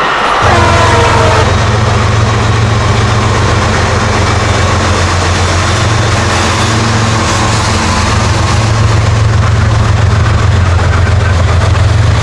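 Diesel locomotive of a Long Island Rail Road train running close by, a loud steady low engine drone over rail and wheel noise. In the first second and a half, the end of the horn falls away in pitch.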